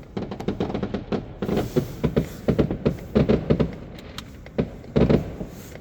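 New Year fireworks going off: a rapid, irregular string of pops and bangs that thins out toward the end.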